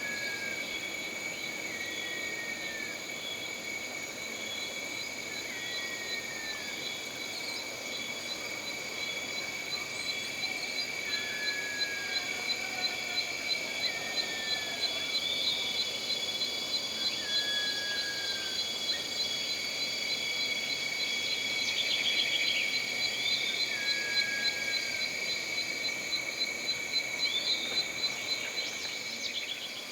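Jungle ambience: a steady chorus of insects droning at several high pitches, joined about ten seconds in by a rapid pulsing insect trill. Short falling whistled calls repeat every two or three seconds over it.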